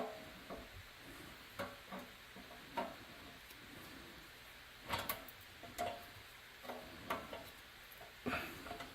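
Irregular light clicks and knocks, about a dozen spread out, the loudest about five seconds in and near the end, over a faint hiss.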